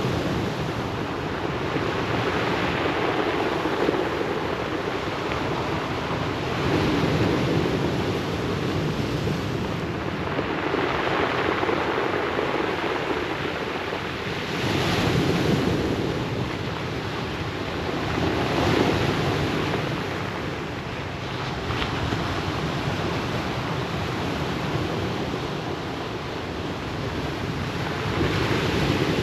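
Ocean waves breaking and washing on a pebble beach: a continuous hissing surf that swells and ebbs every few seconds.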